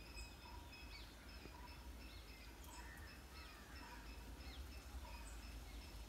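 Faint birdsong: a short note repeated about twice a second, with a few brief, thin chirps over it, above a low rumble.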